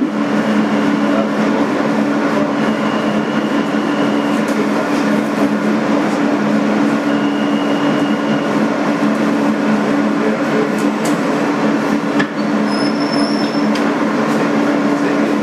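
Inside a 2008 Kawasaki R-160B subway car with Alstom ONIX AC propulsion: a steady two-note electrical hum over continuous rumbling car noise, with a few brief, faint high-pitched squeals.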